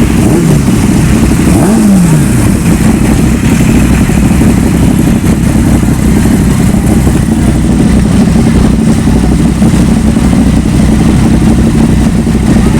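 Motorcycle engines running loud and steady, with the engine note falling twice within the first two seconds.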